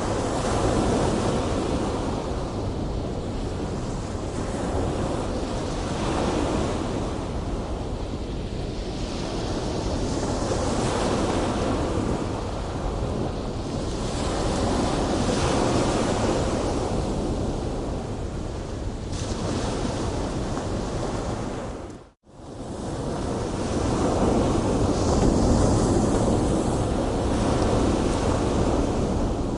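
Big ocean waves breaking, a continuous rush of surf that swells and eases every few seconds. The sound drops out for a split second about two-thirds of the way through.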